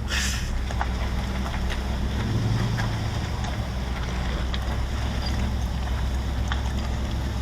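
Car running, heard from inside the cabin: a steady low engine and road rumble, with a short hiss right at the start and a few faint clicks.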